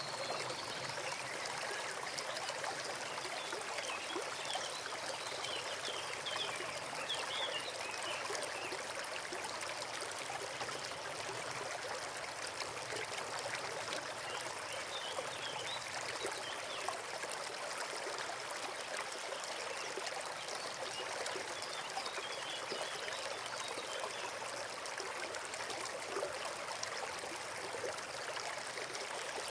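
Small forest stream flowing steadily: a continuous trickling rush of water that doesn't let up.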